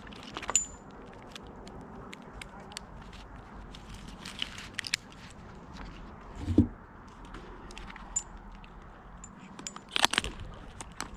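Metal climbing hardware (a friction saver's rings and carabiners) clinking and rattling as it is unclipped and handled. The clicks are scattered, with a dull thump about six and a half seconds in and a burst of clicks near the end.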